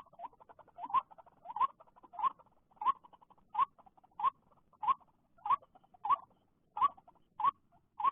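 White-breasted waterhen call: a short rising note repeated at an even pace, about one every two-thirds of a second.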